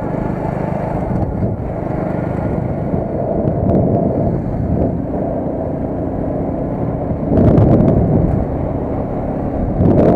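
Car being driven: steady engine and road rumble, briefly louder about seven seconds in.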